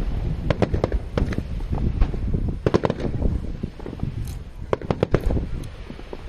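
Aerial fireworks going off: a fast, irregular run of sharp bursts and crackling pops over a steady low rumble, thinning out a little near the end.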